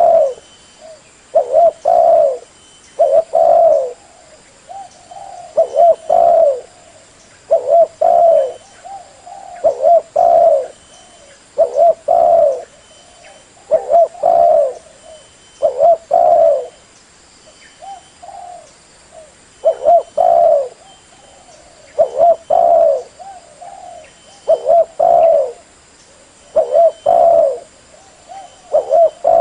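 Spotted dove (tekukur) cooing: a short phrase of coos repeated about every two seconds, with a longer pause partway through. It is the dove's call used as a lure (pikat) to draw in wild doves.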